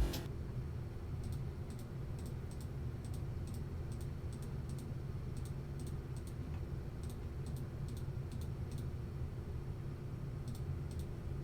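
Faint, irregular clicks of a computer keyboard and mouse, a few a second at most, over a steady low hum.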